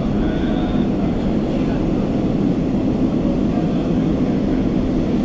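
Elizabeth line Class 345 train running at speed through a tunnel, heard from inside the carriage: a loud, steady rumble of wheels and motors with a faint high whine above it.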